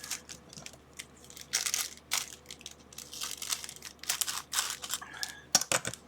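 Plastic packaging crinkling in irregular bursts as small USB adapters are unwrapped and handled, with a few sharp clicks near the end.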